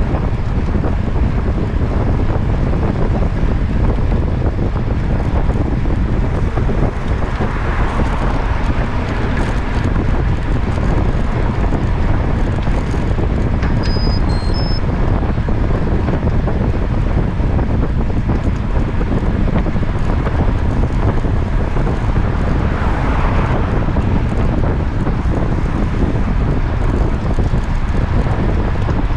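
Wind buffeting a moving camera's microphone, with steady rushing road noise underneath, and a few short high beeps about halfway through.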